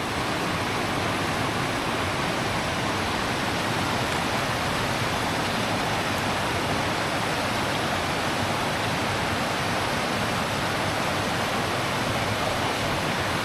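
A river rushing, a steady, unbroken wash of flowing water.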